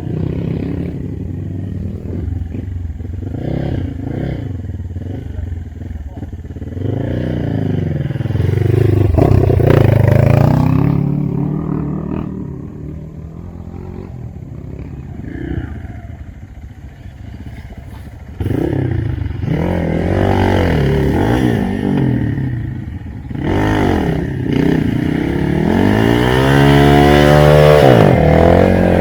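Trail dirt-bike engine revving in repeated surges, pitch rising and falling, with some rattling from the bike. It is loud around eight to eleven seconds in, drops back for several seconds, then surges again and is loudest near the end.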